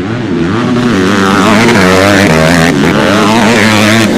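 Several motorcycle engines running and revving together, their pitches wavering up and down, getting louder about a second in.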